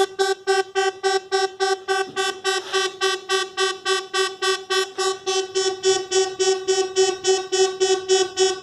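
Mk2 ARP Odyssey analogue synthesizer playing one held note as a buzzy tone pulsing about five times a second. Its pitch slowly sinks because the keyboard control voltage is leaking away in the CV memory circuit instead of holding.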